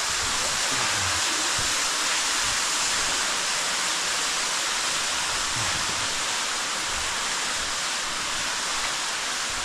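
Storm runoff pouring into a cave pit as a waterfall, a steady loud rush of falling water. The flow is rising with heavy rain.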